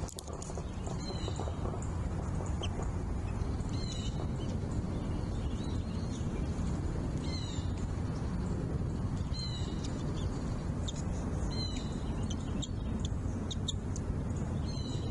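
Bald eagle calling: short, high, downward-sliding chirps repeated every second or two over a steady low rumble.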